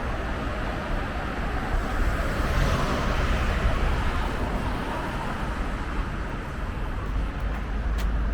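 Street traffic: a car passes with a swell of tyre and engine noise around three seconds in, over a steady low rumble. A short click near the end.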